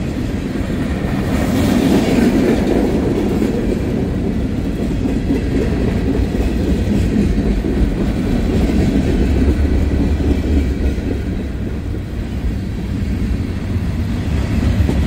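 Freight train cars rolling past on the rails: a steady, loud rumble of wheels on track with clickety-clack.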